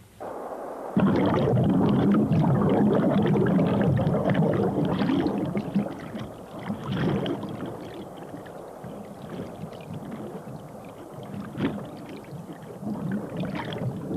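Water splashing and churning hard, starting suddenly about a second in and loudest for the next few seconds. It then settles to lighter sloshing with occasional single splashes.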